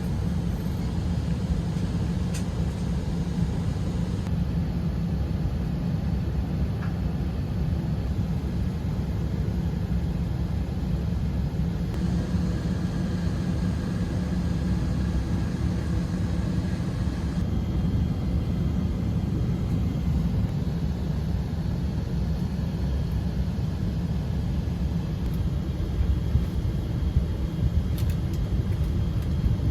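Steady low rumble of an Airbus A321 airliner cabin, the hum of air and machinery with no voices, with a few faint knocks near the end.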